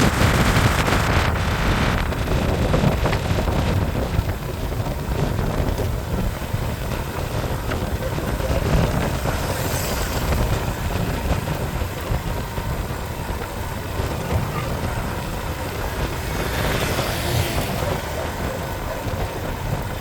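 Steady rumble of a road vehicle on the move, engine and road noise running evenly with no distinct revs or impacts.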